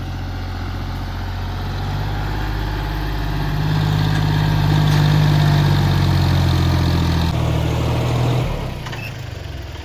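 Diesel tractor engine running hard with a steady low drone. It grows louder about three and a half seconds in, then eases off in two steps near the end.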